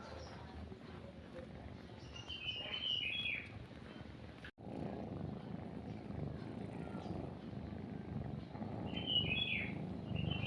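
Songbirds chirping in short, falling calls, with a break about halfway through. A cat's close purring then comes in louder, while the birds chirp again near the end.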